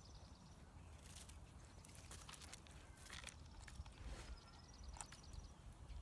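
Faint outdoor sounds: a small bird's high, rapid trill, heard near the start and twice more in the second half, over scattered crunching and rustling footsteps on stones and dry grass and a low wind rumble.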